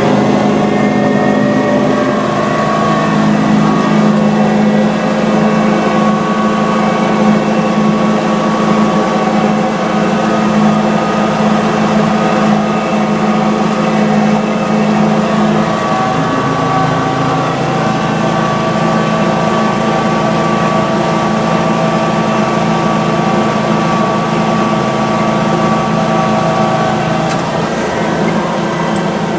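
Vehicle engine running steadily while driving, its pitch dropping a little about halfway through.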